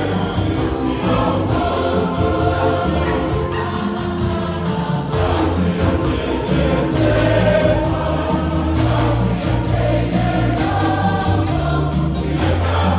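Church choir singing a hymn in many voices, with steady low accompanying notes underneath.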